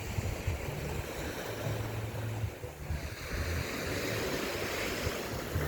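Ocean surf washing onto the shore, with wind buffeting the microphone as a low, choppy rumble. The wash eases briefly about halfway through, then builds again.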